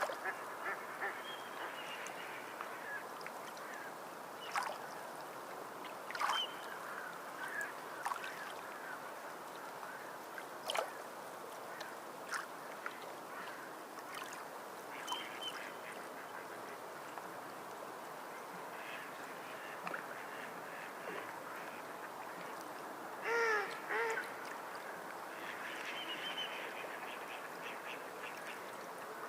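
Sea water lapping and splashing steadily, with water birds calling now and then. The loudest call is a short run of harsh, falling notes about twenty-three seconds in.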